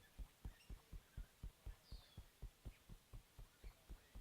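Fingertip tapping on the face and upper body in EFT tapping: soft, low thuds in a steady rhythm of about four taps a second.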